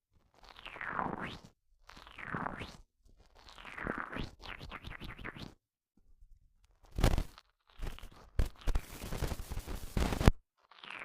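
Squishy hamster toy squeezed right against a mini microphone, giving four squishy squeaks that sweep in pitch over the first five seconds. A sharp crack follows about seven seconds in, then nearly three seconds of rough crackling and scratching as the toy rubs on the microphone.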